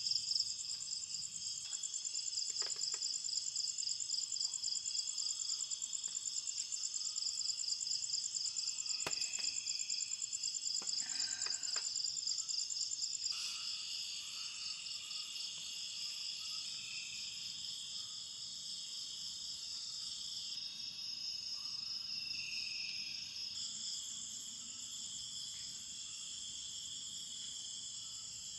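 Dense chorus of tropical forest insects shrilling steadily in several overlapping high-pitched layers, with a few faint clicks in the first half.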